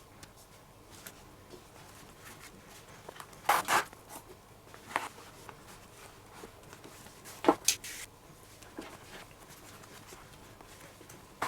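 Lace being pulled through the lacing holes of a leather baseball glove, in about three short strokes with quiet handling between them.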